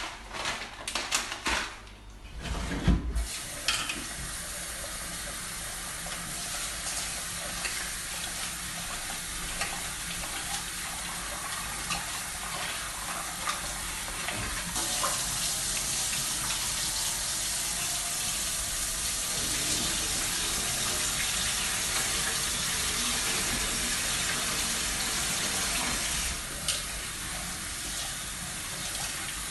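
Tap water running into a kitchen sink, after a few knocks and clatters in the first three seconds. The flow gets stronger about halfway through and eases near the end.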